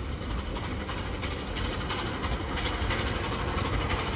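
U.S. Sugar's Sugar Express train, a diesel locomotive and passenger cars with steam locomotive 148, running away along the track. A steady low rumble of engine and rail noise.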